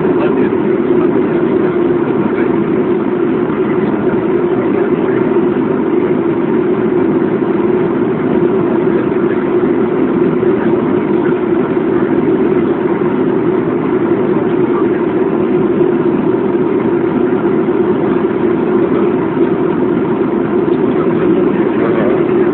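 Steady drone inside a Boeing airliner's cabin: jet engine and airflow noise, even and unchanging.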